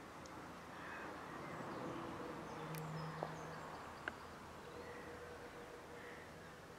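Quiet outdoor ambience with faint, distant birds calling over a steady background hiss, and a couple of small sharp clicks in the middle.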